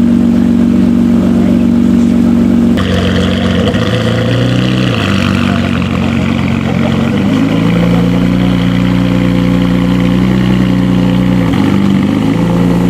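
Ferrari 599's V12 engine running, its exhaust note changing abruptly about three seconds in, then stepping up and down in pitch several times as it is revved.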